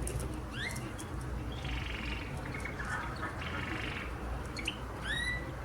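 Canary calling: an upward-sliding chirp about half a second in and another near the end, with buzzy, rattling notes between them.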